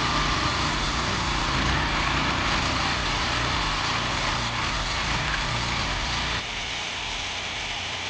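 Engine-driven machinery running steadily, a little quieter and thinner in the low end from about six and a half seconds in.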